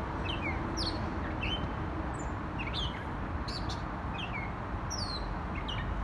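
A songbird singing a run of short, high notes, each falling in pitch, about one every half second, over a steady low background hum of distant traffic.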